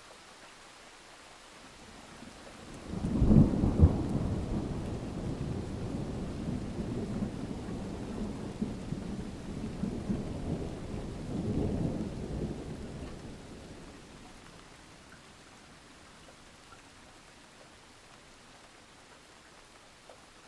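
A peal of thunder breaks with a sharp crack about three seconds in, then rolls on as a low rumble for about ten seconds, swelling once more before it fades. Steady rain hisses faintly underneath.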